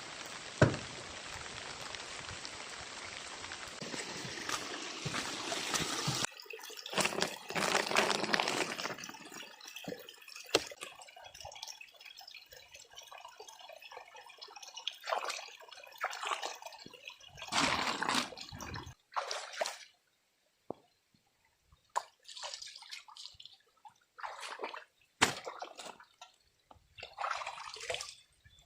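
Heavy rain falling steadily for the first few seconds, then water dripping, trickling and splashing in separate bursts broken by sudden cut-offs.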